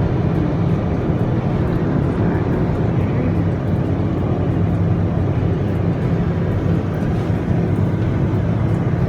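Steady rushing noise with a low hum underneath: wind on the phone's microphone in a Ferris wheel gondola.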